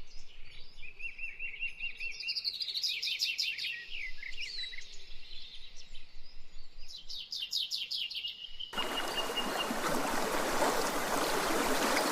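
Birds singing: a repeated warbling call and bursts of rapid, high trills. About nine seconds in, a steady rushing hiss starts abruptly and continues under the birdsong.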